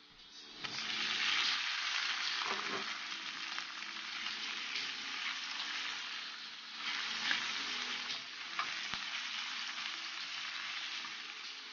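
Minced pork and chopped onion sizzling in hot oil in a wok, stirred and scraped with a spatula. The sizzle swells sharply about a second in as the pork goes into the pan.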